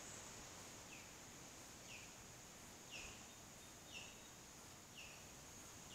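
Faint outdoor ambience: a bird gives a short downward chirp about once a second, over a steady high-pitched hum.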